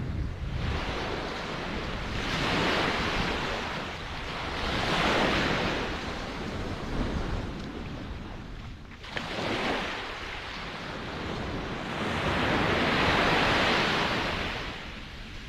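Ocean waves breaking and washing up the shore, the hiss swelling and falling away about four times, with one wave coming in sharply about two-thirds of the way through.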